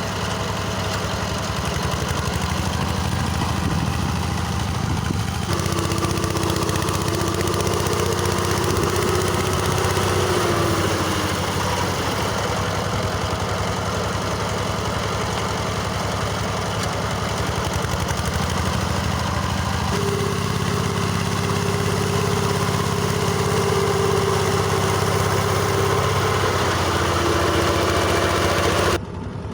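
Tractor engine running steadily while driving a rotary mower through tall grass, its tone shifting a couple of times as the load changes. The sound drops suddenly just before the end.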